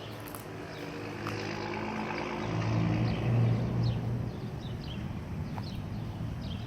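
An engine's low, steady hum that swells about two and a half seconds in and eases off after about four and a half seconds, as if passing or working harder, with faint short chirps above it.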